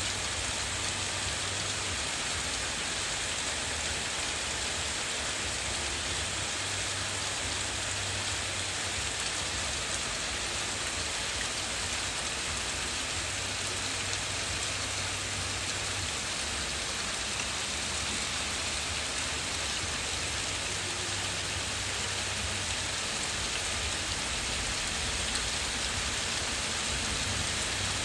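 Steady heavy rain falling during a thunderstorm, an even hiss of rain on surfaces with a low rumble underneath that comes and goes.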